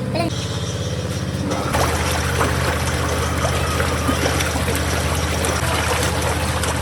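A machine motor humming steadily, joined about two seconds in by wet trickling water noise with many small clicks.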